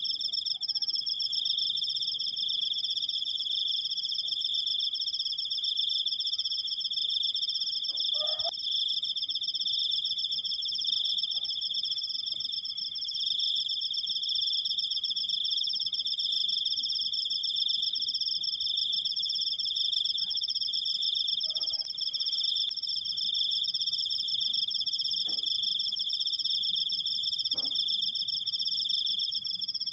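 Crickets trilling without a break: a long, steady, high-pitched 'krik' with a rapid fine pulse, two tones at once. A few faint short sounds are heard beneath it.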